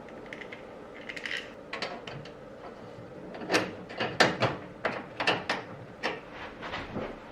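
Irregular clicks and knocks of small metal parts being handled and fitted together, over a faint steady hum.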